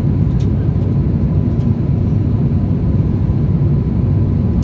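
Steady low rumble of engine and airflow noise inside the cabin of an Airbus A350-1000 airliner, with a faint steady high tone above it.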